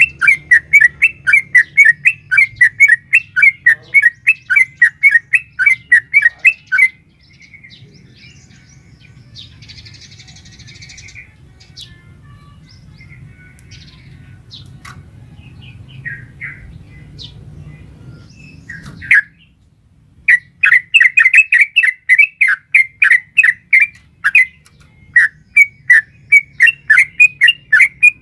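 Yellow-vented bulbul (trucukan) calling in long rapid runs of sharp chattering notes, about three a second, breaking off after about seven seconds into scattered faint calls over a low hum, then resuming in rapid runs about two-thirds of the way in.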